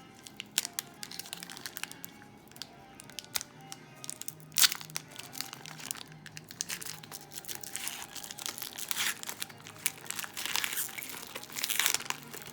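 Trading-card pack wrapper crinkling and tearing as a pack is opened and the cards are handled, with one sharp crack about four and a half seconds in and denser crinkling near the end. Faint background music underneath.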